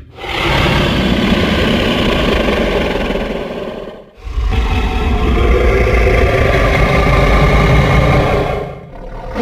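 Two long, deep roars in a row from a designed dinosaur sound effect for the burrunjor, a T. rex-like theropod; each lasts about four seconds, with a brief break between them.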